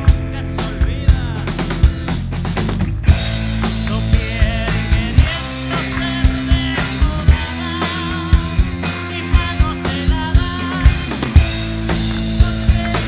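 A band playing live: a drum kit beating out a steady rock rhythm under bass and melody instruments, the arrangement changing about three seconds in.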